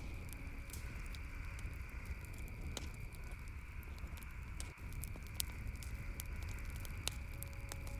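Campfire crackling: irregular sharp snaps and pops, a few every second, over a steady background hiss.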